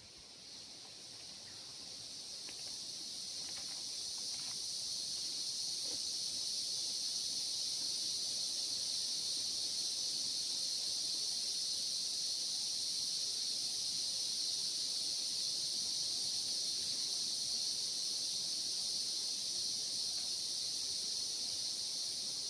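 Forest insect chorus: a steady high-pitched buzz that swells over the first few seconds and then holds level.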